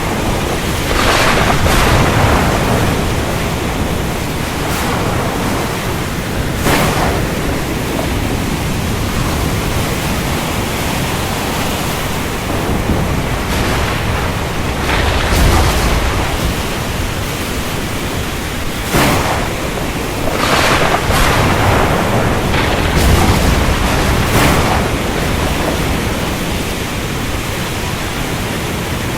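Thunderstorm: heavy rain falling steadily, with several sharp cracks of thunder and low rolling rumbles through it.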